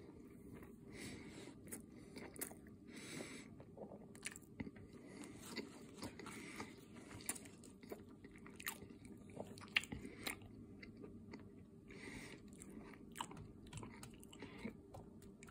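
Close-up chewing and biting of crisp rolled taquitos: irregular crunches and wet mouth clicks.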